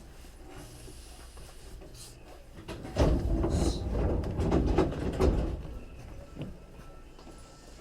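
Sliding passenger doors of a Hankyu 3300 series car opening at a station stop: a loud clatter and rumble with a brief hiss of air about three seconds in, lasting a couple of seconds and then settling.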